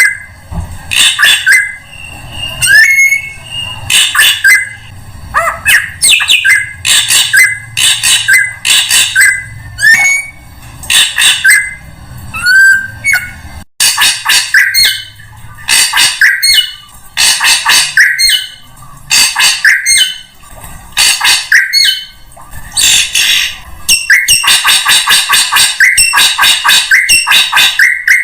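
Drongo calls played as a bird lure: loud, harsh chattering notes in bursts about once a second, mixed with short rising whistles, running into a fast, unbroken chatter near the end.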